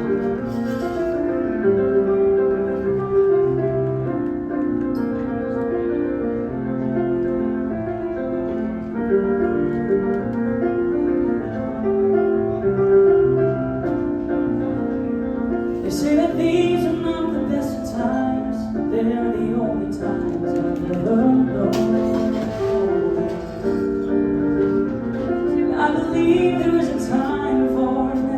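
Live band music led by sustained keyboard chords; about halfway through, cymbals and a wavering singing voice join in.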